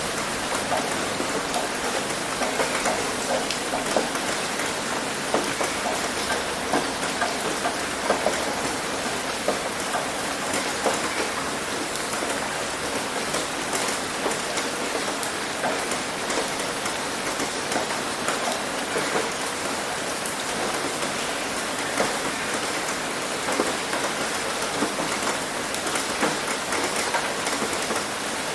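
Heavy rain hitting a roof: a steady, dense patter with many individual drops striking sharply.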